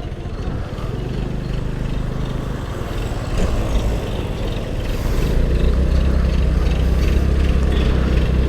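Honda Activa 5G scooter on the move: steady engine hum mixed with wind and road noise, getting louder about five seconds in.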